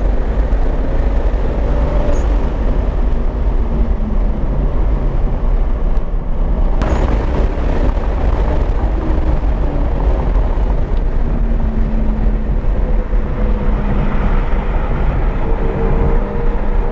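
A single-turbo BMW 335i's inline-six driven hard on a race track, its engine note rising and falling through acceleration, shifts and corners over heavy road and wind rumble, climbing again under acceleration in the second half. A single sharp crack about seven seconds in.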